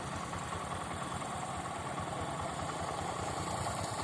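A vehicle engine running steadily, with a regular low throb.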